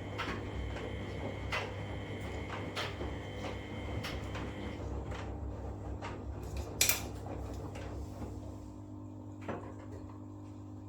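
Front-loading washing machine running a wash cycle: a steady hum under irregular clicks and knocks as the drum turns the load, with a high whine that stops about five seconds in and one louder clack about seven seconds in.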